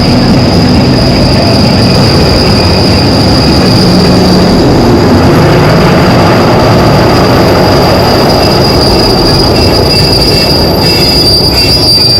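Passenger train pulling into a station under braking: a steady high-pitched wheel squeal over a heavy rumble of the rolling train. The squeal dies away near the end, with a few knocks, as the train slows to a stop.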